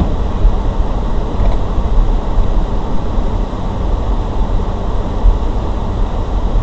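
Steady road and engine noise of a vehicle driving, as picked up by a dashcam inside the car, ending abruptly near the end.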